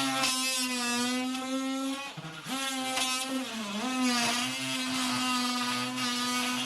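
Power saw running with a steady buzz while cutting wood wall paneling, its pitch dipping briefly about two and a half and four seconds in as the blade takes load.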